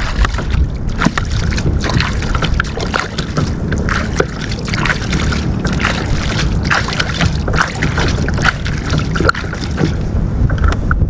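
Wind buffeting the microphone with a steady low rumble, and water splashing and slapping against a kayak in many short crackling bursts.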